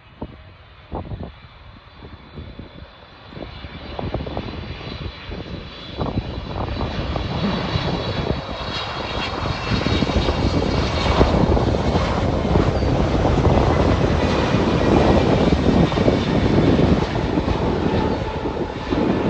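Jet airliner's turbofan engines passing close, growing louder from a few seconds in to a loud, steady rush. A high whine of several steady tones sits over a broad low rumble.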